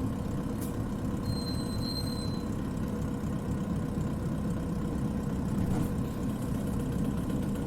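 Isuzu Cubic KC-LV380N city bus's diesel engine running steadily, heard from inside the bus, with a brief high squeal about a second and a half in.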